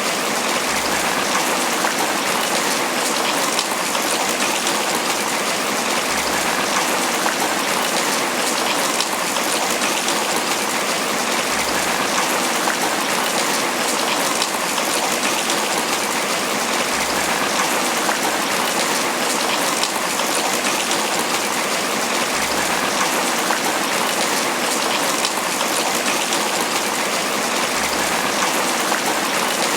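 Steady tropical rain pattering on banana leaves: a dense, even hiss of drops.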